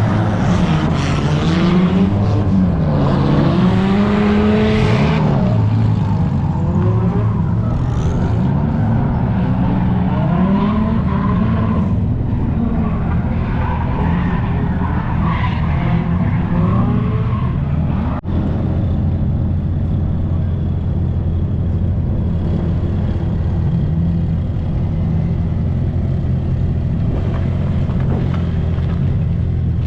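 Car engines revving hard, their pitch rising and falling over and over as in drifting. After a sudden cut about two-thirds of the way through, a steadier, lower engine drone follows.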